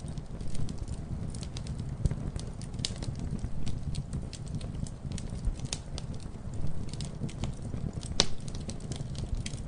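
Wood fire crackling: a steady low rumble of burning with irregular sharp pops and snaps, one louder pop about eight seconds in.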